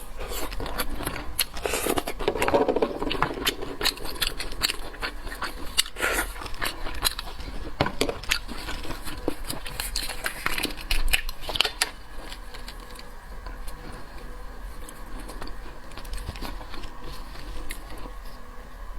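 Close-miked eating of seafood: chewing and biting with many small wet clicks and crunches, busiest in the first dozen seconds and lighter after.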